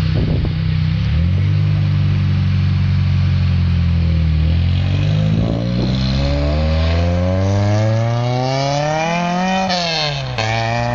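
Car engine running steadily, then revving up in a long rising pitch over several seconds. The pitch drops sharply near the end and starts climbing again.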